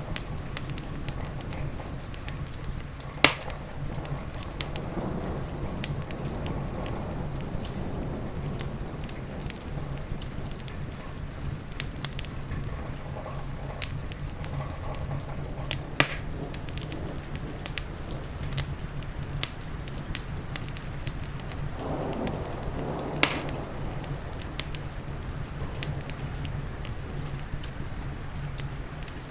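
Wood fire crackling with scattered sharp pops, the loudest about 3, 16 and 23 seconds in, over steady rain and a low, even rumble.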